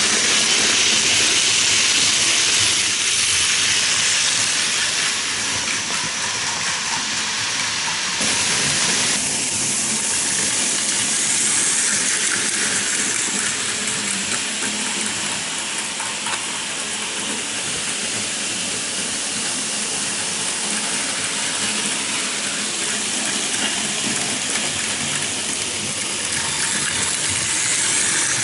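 Motorized Plarail Advance toy trains and N-gauge model trains running on their tracks: a steady, hissy whirring rattle of small motors, gears and wheels on rail. The sound shifts abruptly about eight seconds in.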